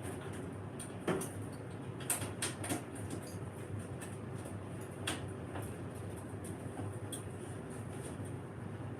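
Handling sounds of hands at work on wiring: a few short clicks and light knocks, bunched around a couple of seconds in and again about five seconds in, over a steady low hum and a faint high whine.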